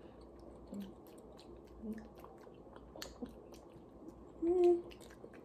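Close-up chewing with small wet mouth clicks as a mango-with-chili snack is eaten, and a brief hummed voice sound about four and a half seconds in.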